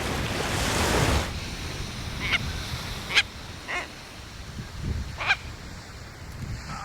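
A handful of short, harsh tropicbird calls, spaced about a second apart, after a rush of wind and surf noise in the first second.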